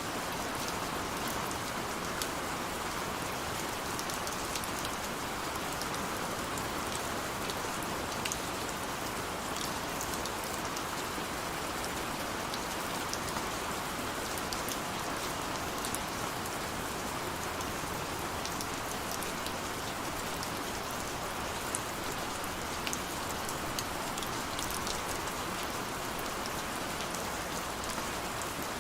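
Steady rain falling, a constant hiss with many small scattered drop ticks on a hard surface.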